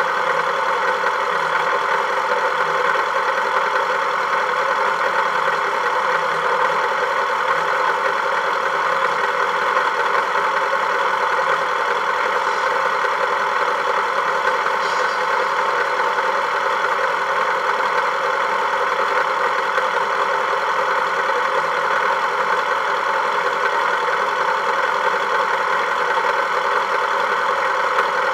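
A Volkswagen engine running at a steady, unchanging pace.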